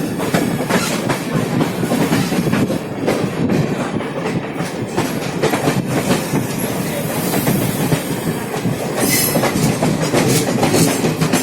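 Passenger express train running: a steady rumble of the coach with the wheels clacking irregularly over the rail joints.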